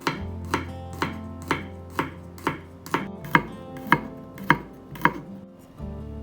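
A kitchen knife chopping on a cutting board in a steady rhythm of about two chops a second, stopping about five seconds in.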